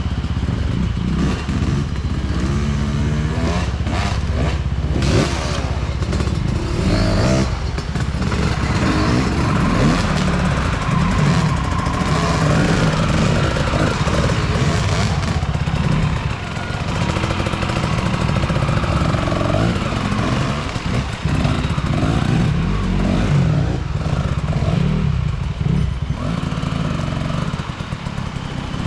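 Off-road enduro motorcycle engine being ridden hard, revving up and down over and over, with scattered knocks and clatter from the bike on rough ground.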